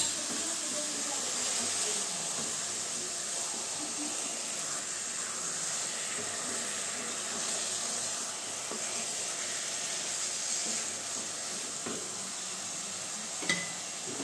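Steady sizzling hiss of grated carrots and khoa cooking in ghee in a hot kadai, with a light knock of the wooden spatula against the pan near the end.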